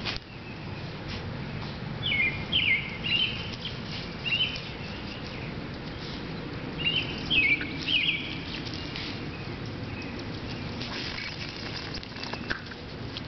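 Songbird chirping: two bursts of quick, high, sharp chirps, a few notes each, over a steady low outdoor background, with light rustling in the grass near the end.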